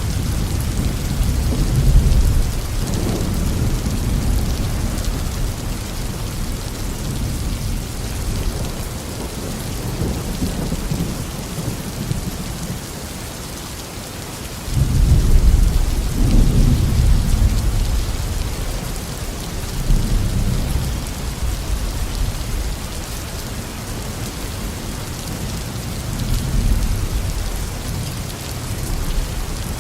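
Rain falling steadily with rolling thunder. A loud low rumble of thunder starts suddenly about halfway through, followed by weaker swells of rumble.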